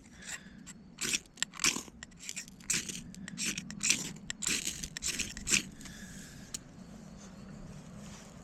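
Irregular scrapes and rustles of dry birch bark and sticks being handled as tinder for a campfire, a dozen or so sharp strokes over about six seconds, then only a faint steady hiss.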